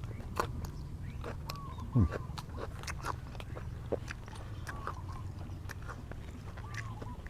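A person chewing and biting into grilled chicken and papaya salad at close range, with many small wet clicks and smacks of the mouth. Faint short chirps recur every second or so under the chewing.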